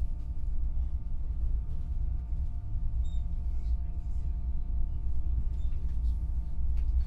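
Train running with a steady low rumble and a faint steady whine above it, with scattered light clicks.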